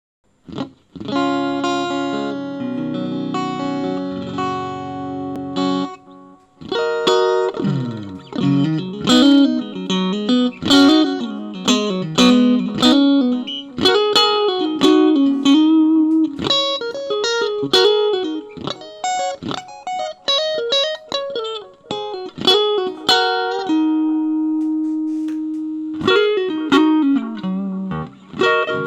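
Bacchus Universe guitar being played: a few sustained chords for the first six seconds, then a run of quick single-note melodic lines with notes that slide and waver in pitch, and a long held note a few seconds from the end.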